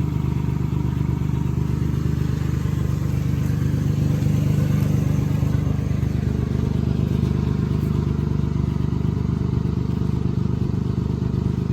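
2008 Ford Ranger pickup's engine idling steadily, a constant low running hum with no revving.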